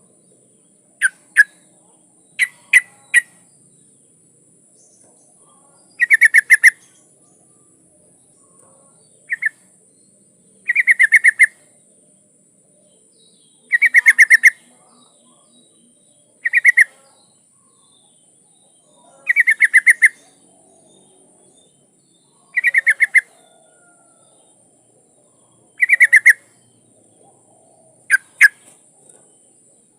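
Yellow-vented bulbul (trucukan) calling in short, quick, bubbly phrases repeated every two to three seconds. It is presented as a female in breeding condition calling males, used as a lure call.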